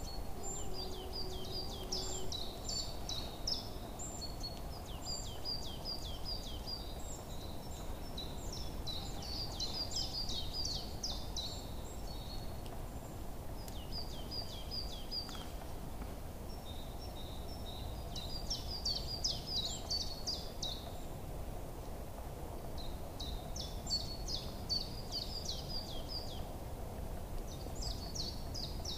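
Birdsong: a small bird sings repeated trills of quick falling chirps in bouts of one to three seconds, with short pauses between them, over a steady low background noise.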